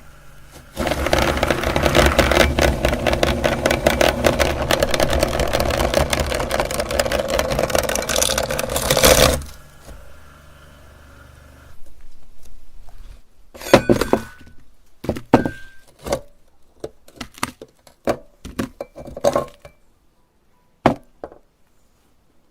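Electric meat grinder running and crushing candy: a loud, dense stream of rapid cracking over the motor for about eight and a half seconds. After that it stops, and a few seconds later come scattered separate clicks and clinks.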